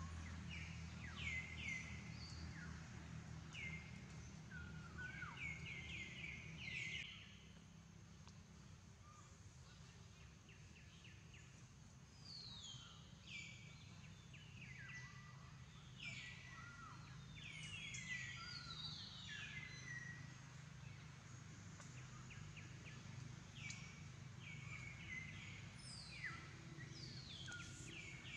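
Faint bird calls: many short chirps, each sliding down in pitch, come in quick runs throughout, over a steady low hum.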